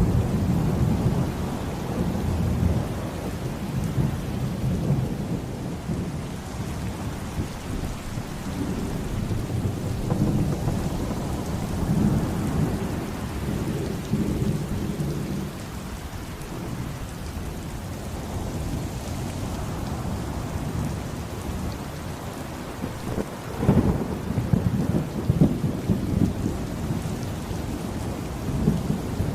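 Heavy rain with deep, rolling thunder that swells and fades, breaking into sharper crackling peals about 24 seconds in and again near the end.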